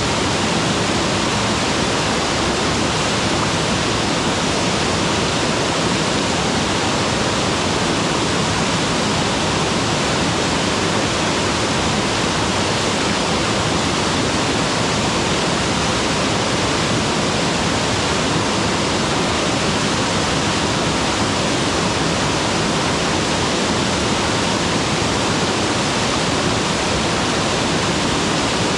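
Mountain waterfall: a steady, loud, unbroken rush of falling water.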